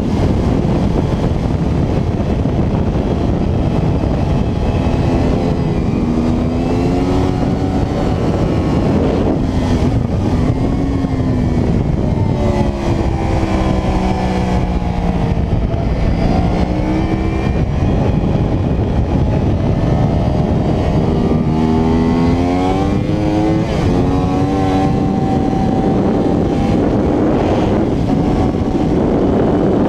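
2009 Yamaha R1's crossplane inline-four engine at racing speed, its note climbing and dropping again and again through acceleration and braking, under a constant loud rush of wind on the microphone.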